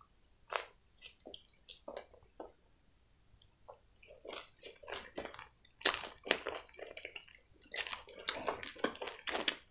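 A person chewing a mouthful of sauce-covered hot dog: soft, wet mouth smacks and squelches, sparse at first and coming thicker in the second half.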